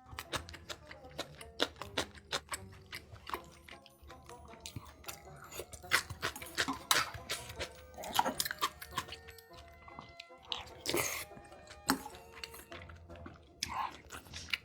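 A person eating close to the microphone, chewing with many sharp crunches and bites, over background music.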